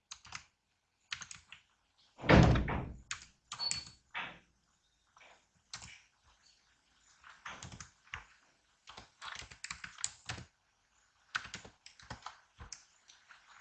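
Computer keyboard typing, irregular keystrokes and clicks, with one louder thump about two and a half seconds in.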